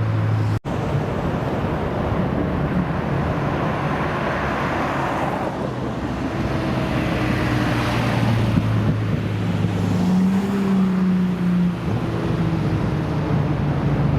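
Car engines running at low speed, with steady low engine notes and a wider rush of car noise swelling in the middle; a slightly higher engine note holds for a couple of seconds near the end.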